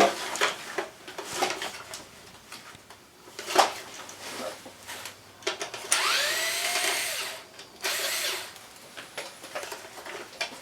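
Plastic clicks and knocks from handling air-conditioner parts, then a cordless power screwdriver runs for about a second and a half, its whine rising as it spins up, and runs again briefly a second later, driving screws in the unit's casing.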